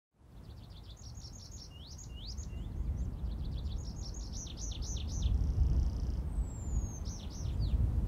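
A small songbird singing: quick runs of high, down-slurred chirps in several bursts, with one thin falling whistle near the end. Underneath is a low rumble that grows louder.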